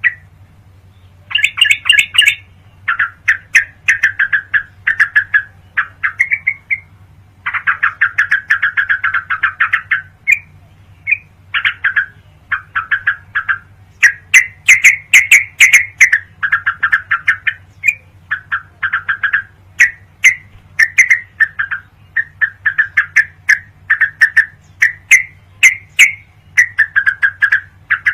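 Recorded song of a trucuk (yellow-vented bulbul): bout after bout of rapid, bubbling chattering notes with brief pauses between phrases. A steady low hum runs underneath.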